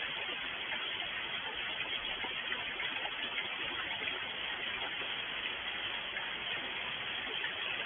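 Rain falling steadily, an even hiss with no breaks or separate drops standing out.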